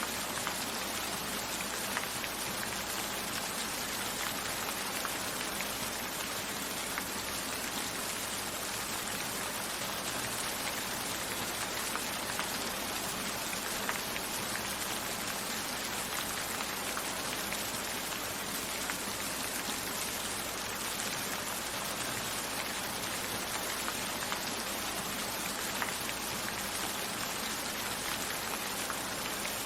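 Steady rain: an even hiss of falling rain, with single drops ticking out of it every so often.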